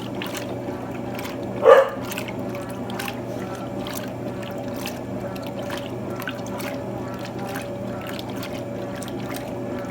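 Electrolux TOP8A top-loading washing machine running: a steady motor hum with water sounds from the tub. About two seconds in there is one short, loud high-pitched sound.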